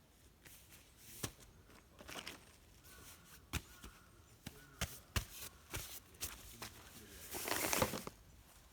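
Handling noises: a string of sharp clicks and knocks, and a louder rustling crinkle about seven and a half seconds in.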